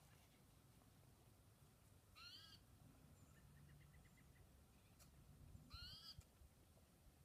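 Near silence broken by a bird calling twice, each a short arched call, about three and a half seconds apart, with a quick run of faint ticks between them.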